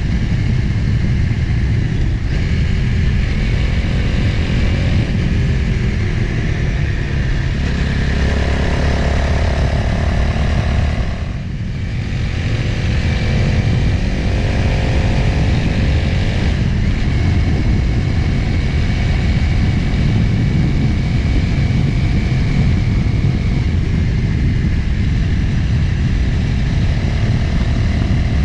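Motorcycle engine running at road speed under heavy wind rush on the camera's microphone, its pitch rising and falling with the throttle. The engine sound drops briefly about eleven seconds in, then picks up again.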